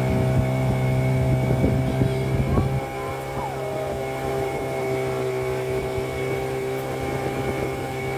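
Small engine running steadily at an even pitch, dropping somewhat in level about three seconds in.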